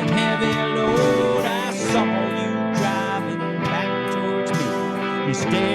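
Acoustic guitar music, strummed and picked, in an instrumental break of a song.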